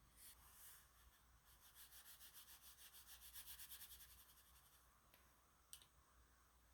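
Faint, quick back-and-forth strokes rubbing on sketchbook paper, eight to ten a second. They build up and fade over about three seconds, then two small ticks follow near the end.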